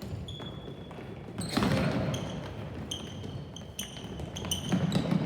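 Indoor game sounds in a gym: a ball bouncing and thumping on the court amid short, high sneaker squeaks on the floor, with two louder swells of noise, about a second and a half in and near the end.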